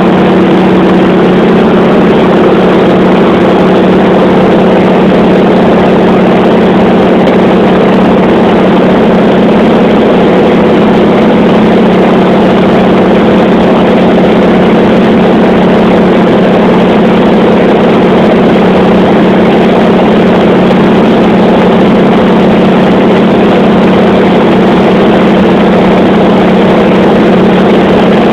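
Aircraft piston engine running steadily in flight: a loud, constant drone with a strong low hum that holds unchanged throughout.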